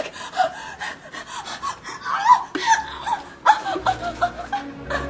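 Women laughing in breathy, gasping bursts, with music coming in near the end.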